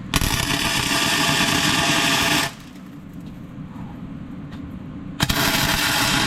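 Electric arc welding on steel: two welds of about two seconds each, the arc crackling and sputtering steadily. The first starts just after the beginning, the second about five seconds in.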